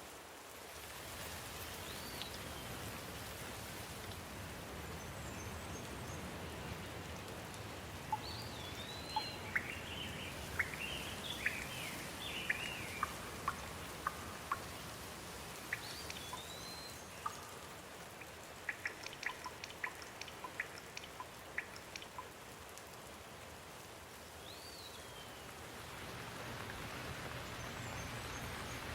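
Steady rain falling, with a run of sharp, close drips through the middle stretch and a bird chirping a few times.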